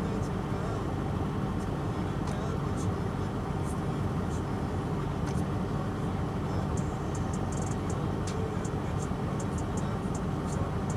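Heavy machine engine running steadily, with scattered short clicks and snaps over it.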